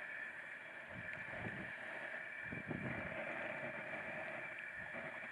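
Water sloshing and swishing in a scalding pot as a slaughtered chicken is dunked and moved around in the hot water to loosen its feathers, with wind buffeting the microphone.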